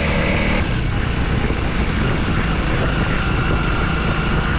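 Single-cylinder engine of a Honda 300L dirt bike running steadily under way, with wind and road noise.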